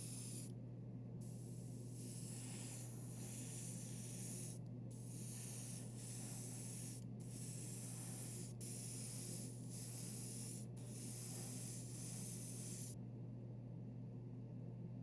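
Airbrush spraying paint: a steady hiss in long bursts broken by short pauses, which stops near the end. A steady low hum runs underneath.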